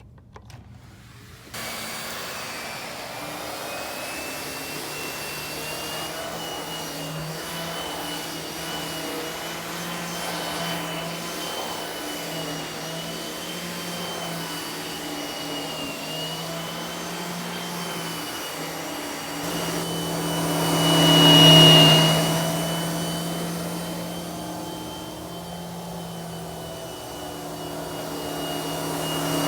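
Canister vacuum cleaner with a Vacuflo TurboCat powerhead switching on about a second and a half in, then running steadily with a low hum and a high, slightly wavering whine. It swells louder for a moment about three quarters of the way through and again at the end.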